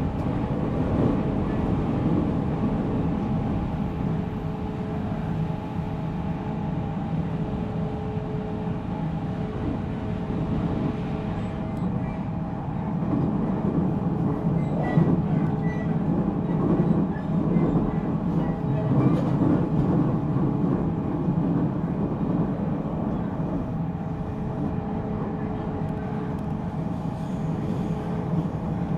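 Interior running noise of a JR Central 313 series electric multiple unit, heard from inside motor car MoHa 313-7 at a steady speed: a continuous rumble of wheels on rail under several steady whining tones.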